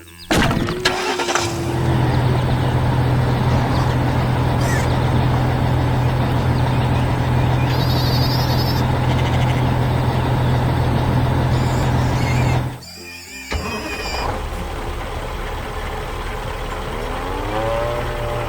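A large machine engine starts with a sudden burst, then runs steadily with a deep hum for about ten seconds before cutting off abruptly. A quieter sound with rising tones follows near the end.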